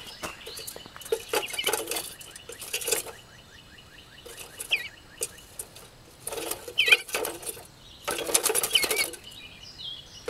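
A bluebird trapped inside a light fixture, flapping its wings against the fixture in three rapid fluttering bursts with pauses between them, along with a few short chirps.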